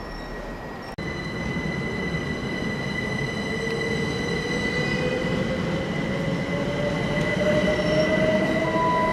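A GWR electric train running through the station: a steady high-pitched wheel squeal over a low rumble. A whine rises slowly in pitch from a few seconds in, and the sound grows steadily louder as the train picks up speed.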